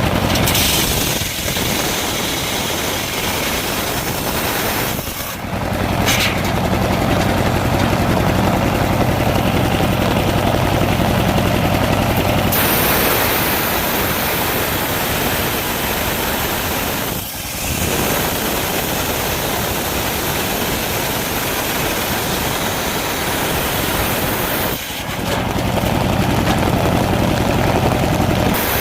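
Engine-driven circular saw running steadily, its sound dipping briefly four times, over the hiss of heavy rain.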